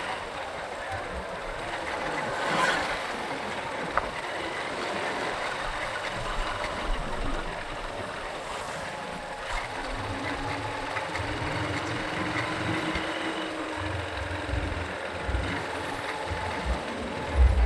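Road and traffic noise on a motorbike ride through city streets: a steady rushing noise, with a brief louder swell early on and low, irregular rumbling from about halfway through.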